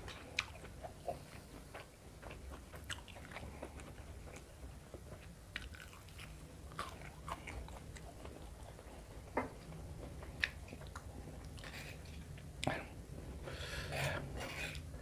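Close-up mouth sounds of a person chewing food, with scattered wet smacks and crunchy clicks. Near the end comes a short scraping rasp, as a spoon scoops sambal in a stone mortar.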